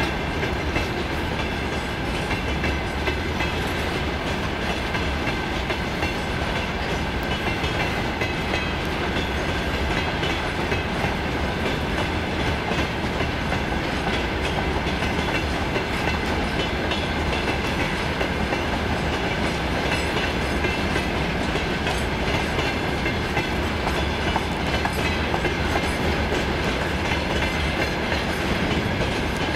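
Freight train of covered hopper wagons rolling past at a steady speed: a constant running noise of wheels on rails with faint clicking, and a faint steady high ring.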